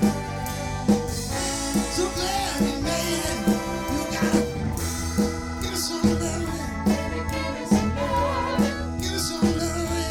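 Live band music with a steady drum beat under held melodic notes.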